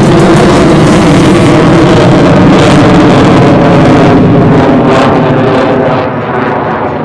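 Loud military jet engine noise from an aircraft passing close, with the high end fading away and the level dropping in the last second or so as it moves off.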